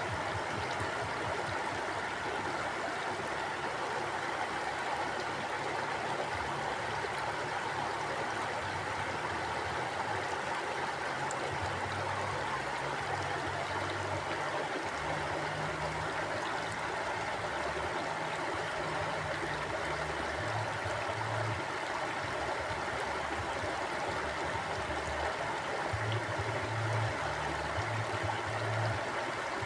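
Mountain river flowing over rocks: a steady, even rush of water with an uneven low rumble underneath.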